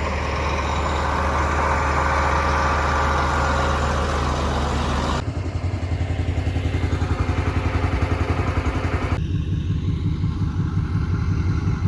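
Tractor engine running steadily, in short clips cut together; in the middle clip the sound pulses rapidly.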